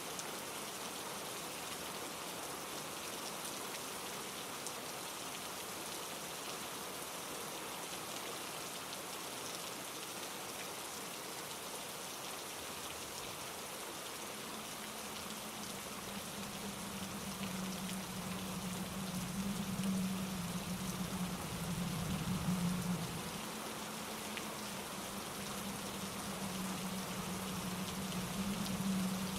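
Steady rain falling, a dense even patter. About halfway through a low rumble comes in underneath and swells twice before settling.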